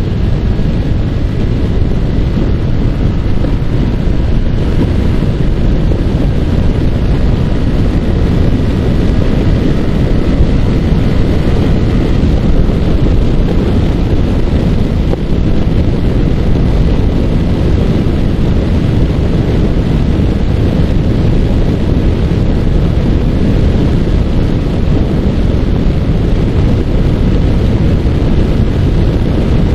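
Heavy wind buffeting the microphone of a Yamaha R15 motorcycle riding at speed, with the bike's single-cylinder engine running steadily under it.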